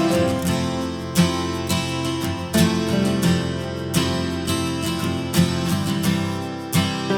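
Music: acoustic guitar strumming chords in a steady rhythm, with no singing.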